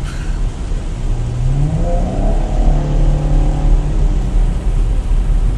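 2019 Chevrolet Camaro accelerating with its NPP dual-mode exhaust valves held open by the pulled fuse, heard from inside the cabin. The exhaust note climbs in pitch from about a second in, dips briefly near the middle, then holds steady over a constant road rumble.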